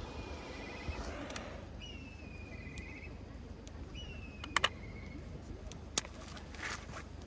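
An animal calling three times, each call a short falling note that runs into a rapid trill of about a second, over a steady low background. A double click a little past the middle and another click about six seconds in are the loudest sounds.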